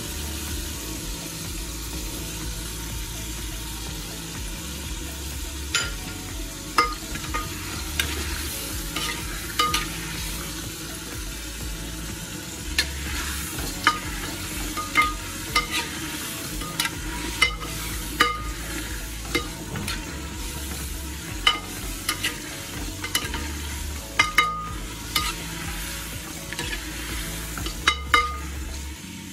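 Meat chunks and tomato sizzling in hot oil in an aluminium pot. A metal ladle stirs them, clinking and scraping against the pot's sides over and over from about six seconds in.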